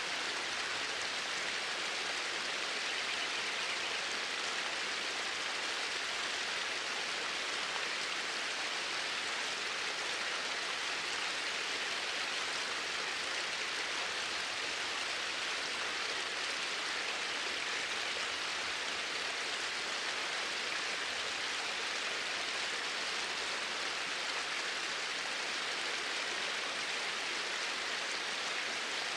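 Flowing water rushing steadily, an even hiss with no pauses.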